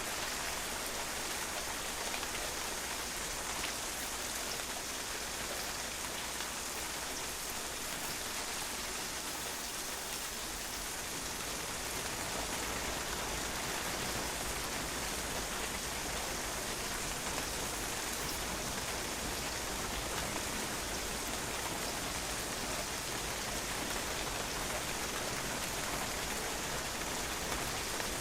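Steady rain falling, the drops splashing and pattering on a patio.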